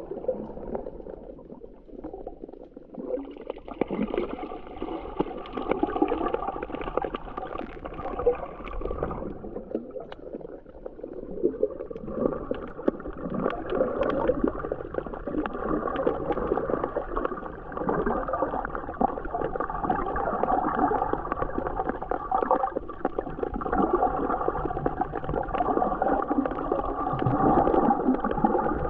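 Shallow seawater recorded underwater, muffled as if through a camera's waterproof housing: gurgling and sloshing of water movement and bubbles. It thins out briefly about a third of the way through and then picks up again.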